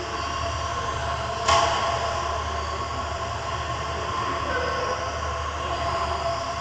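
Several radio-controlled model trucks racing, with a steady mix of motor and gear whine. There is one sharp knock about a second and a half in.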